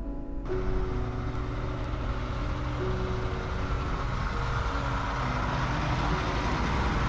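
A vehicle driving, with steady engine and road noise that comes in about half a second in as background music drops away.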